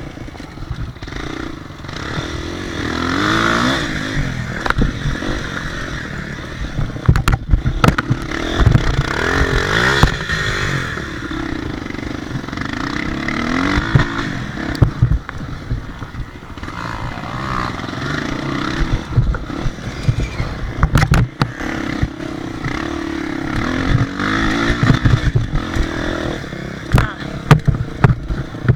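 Motocross motorcycle engine revving up and dropping back again and again, every few seconds, with sharp knocks and clatter scattered through.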